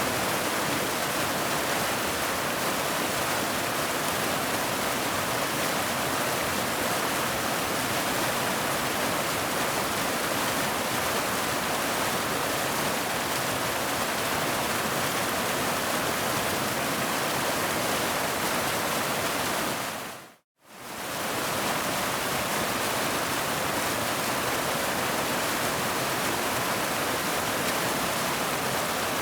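Waterfall: a steady, dense rush of falling water. About two-thirds of the way through it fades out to silence for a split second and straight back in, like a loop splice.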